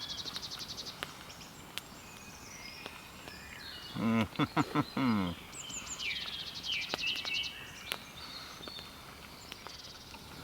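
Woodland birds chirping, with a rapid high trill near the start and again partway through. About four seconds in comes a brief, low, wavering sound from close by, the loudest thing here.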